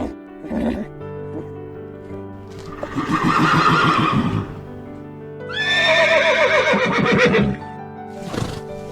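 Two long, shaky animal calls, the second falling in pitch, over steady background music.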